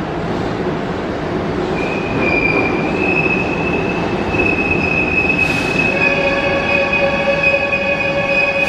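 Keihan train wheels squealing over a steady rumble: a single high, steady squeal begins about two seconds in, and from about six seconds a lower, fuller ringing tone with many overtones joins it. Two short hisses come about five and a half seconds in and at the end.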